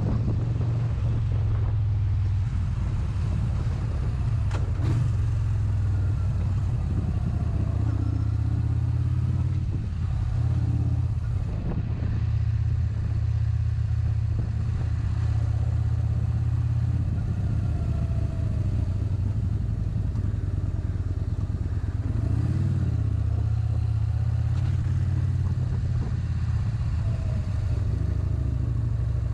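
Motorcycle ridden at a steady pace, its engine and the ride making a steady low rumble with no hard revving.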